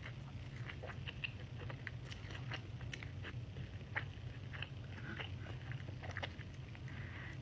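Close-miked eating: chewing with wet mouth smacks and small irregular clicks, over a steady low hum.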